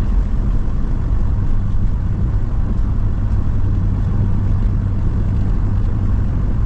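Steady engine and road noise inside a moving RV's cab: an even low rumble with a constant low hum.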